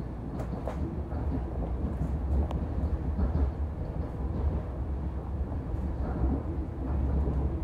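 Inside an NJ Transit Multilevel passenger coach in motion: a steady, deep rumble of the wheels running on the rails. A few sharp clicks and knocks come in the first three seconds.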